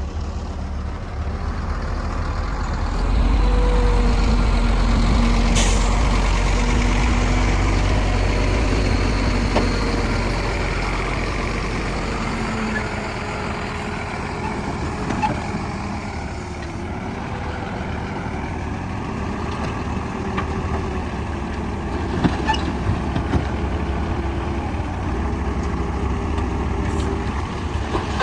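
Bulldozer's diesel engine running hard, swelling louder for several seconds about three seconds in, with a few sharp knocks.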